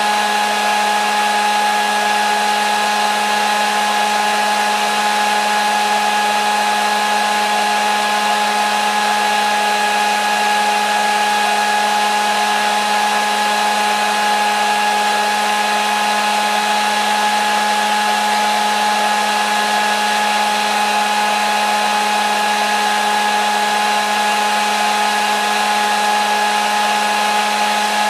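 Hair dryer running steadily: a continuous rushing of air with an even motor whine.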